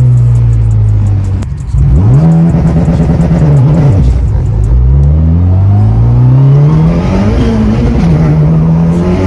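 Honda Civic Si race car's turbocharged four-cylinder engine pulling hard through the gears. The revs climb, drop at the shifts about a second and a half in and again near four seconds, then climb again and level off.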